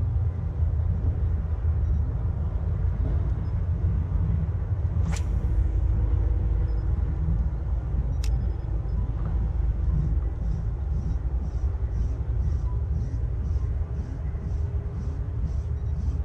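Steady low rumble of wind buffeting the camera's microphone while trolling from a kayak. There are two sharp clicks about five and eight seconds in, and faint high ticking about three times a second from about ten seconds in.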